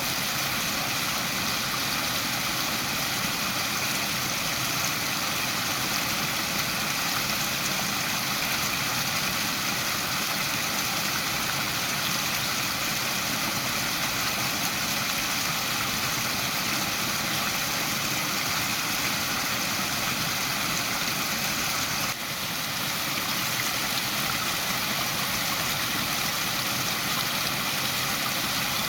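Waterfall: a steady, unbroken rush of falling water, with a brief dip in level about twenty-two seconds in.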